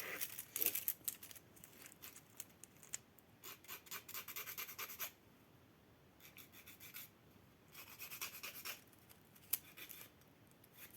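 Nail file rasping across fingernails in quick, faint strokes, coming in several short bursts with brief pauses between them.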